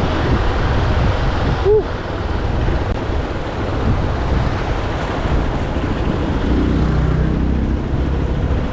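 Steady rush of wind on the microphone over a motorcycle engine running underneath.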